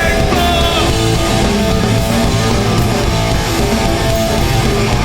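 Live hardcore punk band playing at full volume straight after a "1, 2, 3, 4" count-in: distorted electric guitars, bass and drums, with no vocals.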